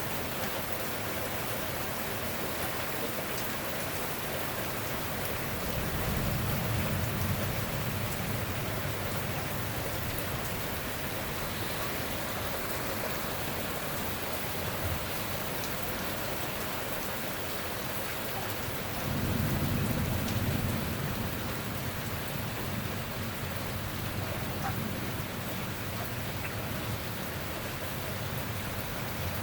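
Steady rain falling through a thunderstorm, with thunder rumbling low twice: once about six seconds in and again near two-thirds of the way through.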